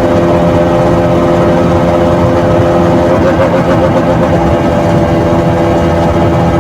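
KTM RC 200's single-cylinder engine and stock exhaust running at a steady engine speed, close-miked by a microphone mounted on the bike. The pitch wavers briefly a little past three seconds in, then settles again.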